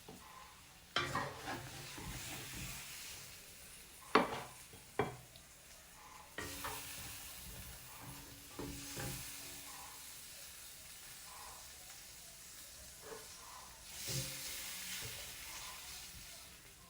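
Food sizzling in hot oil while being stirred, with a few sharp clacks of a utensil against the pan. The sizzle swells three times: about a second in, around six seconds and near the end.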